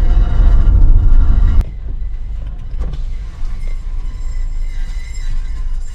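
Car driving: a heavy low rumble of road and engine noise that cuts off abruptly about a second and a half in, leaving a quieter, steady car noise with a few faint knocks.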